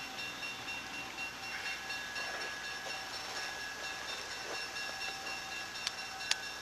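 Faint, steady train noise with a few thin steady tones over it, and two sharp clicks near the end.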